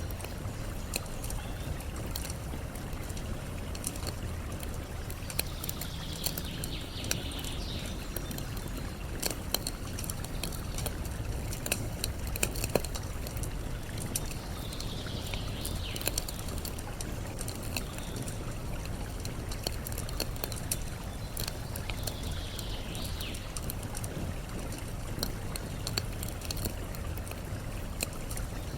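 Campfire wood crackling and popping over the steady rush of flowing water. A bird calls three times, several seconds apart.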